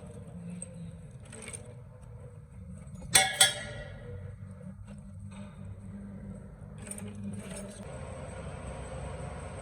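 Two sharp metallic clinks in quick succession about three seconds in, metal parts or a tool striking metal with a short ring, over a steady low workshop hum.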